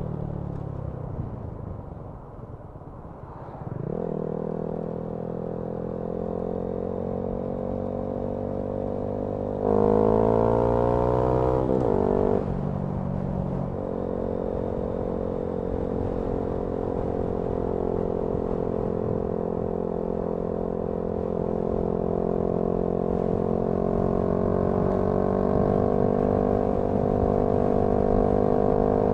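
Honda Grom's 125cc single-cylinder four-stroke engine heard from the rider's helmet: the revs fall away for a few seconds as the bike slows, then pick up again. About ten seconds in it revs up hard and louder, drops back at a gear change about two seconds later, and then runs steadily with revs slowly rising.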